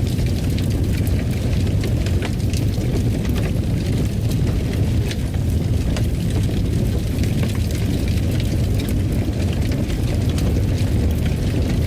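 Wood fire crackling in a fireplace: a steady low rumble of the flames with frequent small, irregular crackles and pops.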